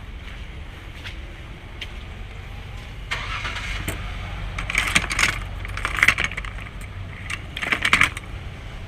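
A car running with a steady low rumble. From about three seconds in, four irregular bursts of higher clattering, clinking noise sound over it, the loudest near the end.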